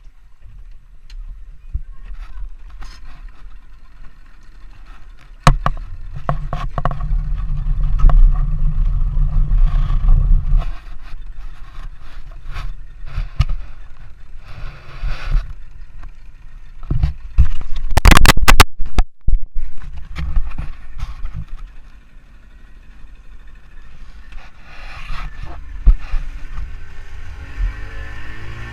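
A motorboat under way: heavy wind buffeting on the microphone and a low rumble, surging loudly about five seconds in and again around the middle, with the engine's note rising near the end.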